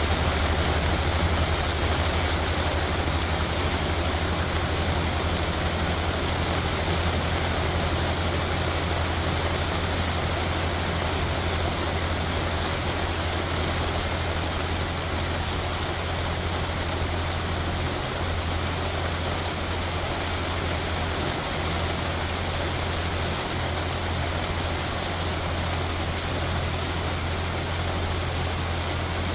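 Steady rainfall, an even hiss of rain, with a constant low rumble underneath.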